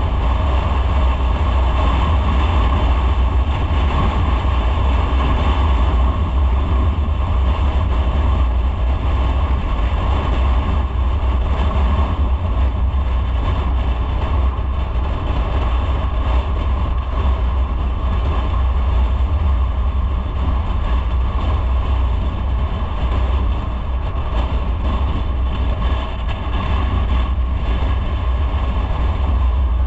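Motorcycle under way at a steady pace: a constant engine and road rumble mixed with wind noise on the microphone, with no breaks or changes.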